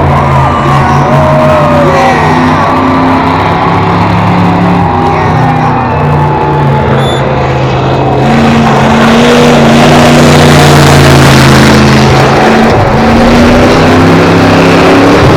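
Car engines running in a boat-dragging demolition race, with music playing over them. About eight seconds in, a harsher, rougher noise joins and holds.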